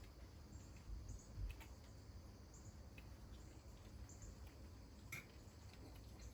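Near silence: faint outdoor ambience with a low rumble and scattered soft, short high ticks and chirps.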